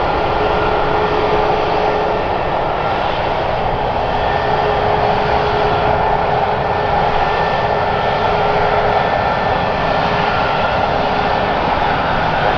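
Airbus A320neo-family turbofan jet engines running steadily, a constant rush with a faint high whine held on a few steady tones.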